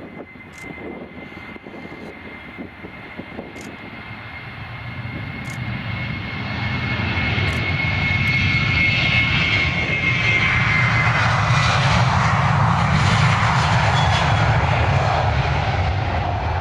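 Ryanair Boeing 737's jet engines on take-off: a high steady whine over rising engine noise that builds to a loud, steady rush about eight seconds in, the whine fading soon after.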